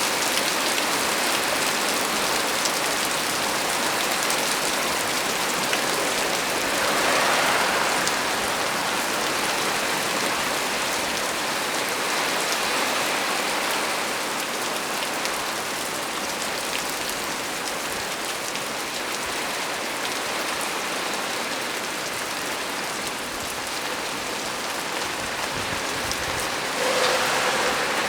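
Heavy rain falling steadily on the leaves of a small tree: a dense, even hiss. It swells briefly twice, about seven seconds in and again near the end.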